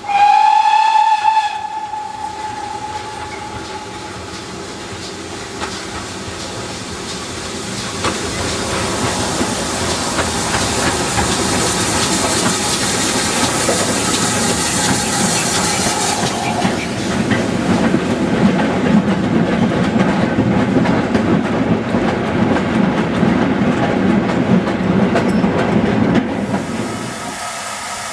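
Steam locomotive whistle sounding once, a single clear tone, followed by the locomotive working past. Steam hisses and a heavy rumble builds and grows louder.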